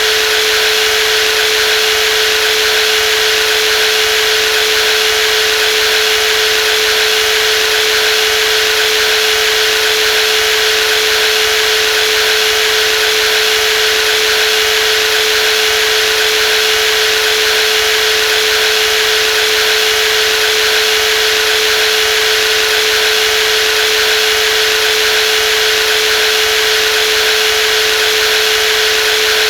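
Brushless jigsaw motor running steadily at constant speed: an even whine with a strong steady tone over a bright hiss, unchanging throughout.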